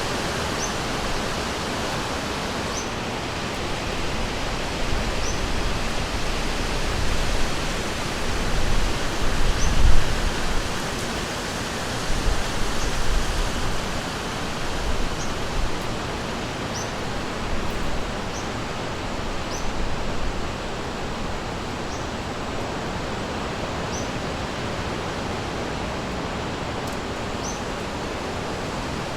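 River water rushing steadily, with short high chirps repeating every second or two over it.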